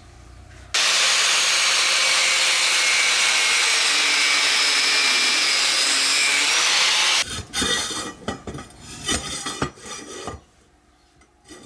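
Metalworking on steel square tubing: a loud, steady, harsh hiss that starts and stops abruptly and lasts about six seconds, followed by a few seconds of irregular metal scraping strokes.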